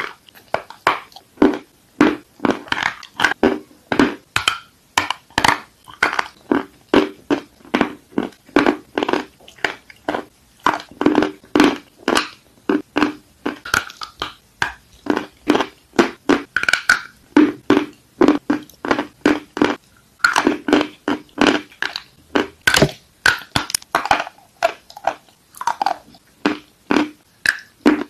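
Close-miked biting and chewing of crunchy clay: a steady run of crisp crunches, about two a second.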